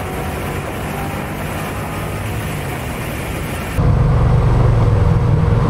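Car engines running at highway speed as a steady drone. About four seconds in it cuts abruptly to a louder, deeper engine drone heard from inside a car's cabin as the cars roll at about 40 mph before a race.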